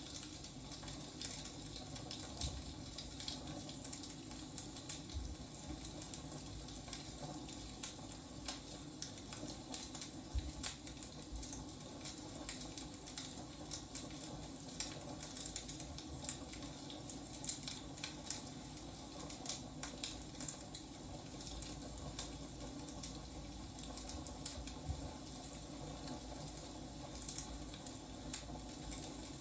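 Burning firewood crackling, with irregular sharp snaps and pops over a steady low hiss.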